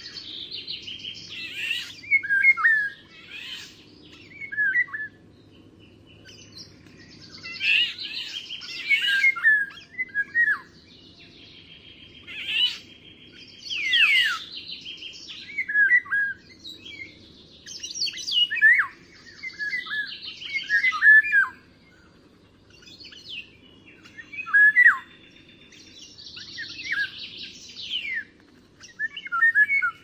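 Songbirds singing: phrases of chirps and quick falling whistled notes, repeated every few seconds with short pauses between them.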